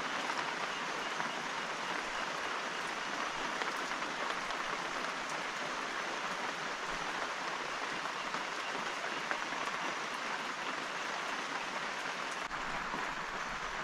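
Steady rain falling, a dense, even patter with no let-up. A low rumble of thunder sets in near the end.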